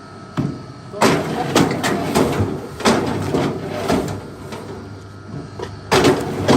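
Axes chopping into a big log: a run of sharp blows with crunching wood in between, and a louder pair of strikes near the end.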